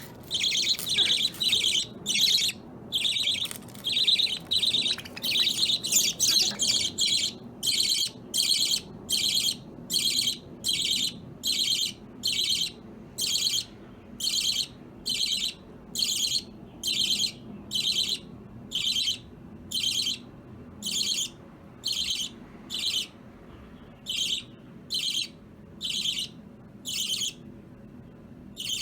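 Budgerigar chirping: short, high-pitched calls repeated at a steady pace of about one a second, more crowded and overlapping in the first few seconds.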